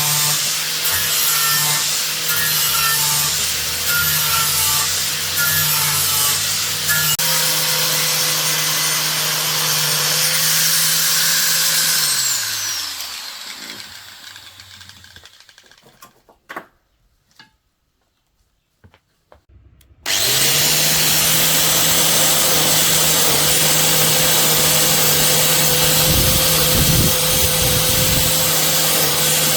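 Electric motor running steadily. About twelve seconds in it is switched off and coasts down to a stop, its hum falling in pitch. After a few seconds of near silence with a few light clicks it is switched back on, comes straight up to speed and runs steadily again.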